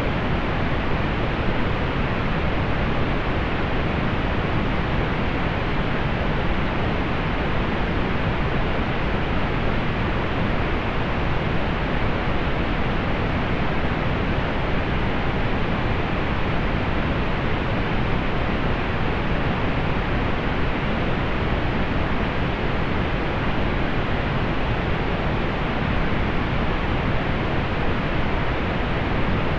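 Steady pink noise: an even, unchanging hiss with its weight in the low end and the top end rolled off.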